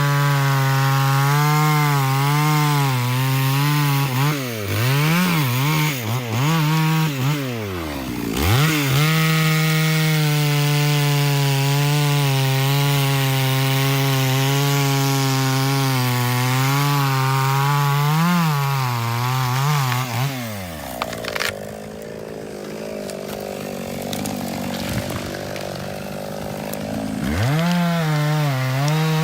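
Two-stroke chainsaw at high revs cutting through wood, its engine note wavering and sagging as the chain loads up in the cut. About two-thirds through, the revs fall away to a quieter stretch without the engine note, and the saw is throttled back up to full speed near the end.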